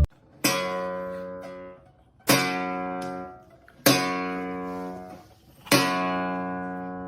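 Background music: an acoustic guitar strumming four single chords, each left to ring and fade before the next.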